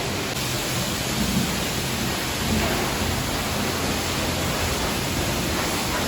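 Steady, loud rushing hiss of water spray in a self-serve car wash bay.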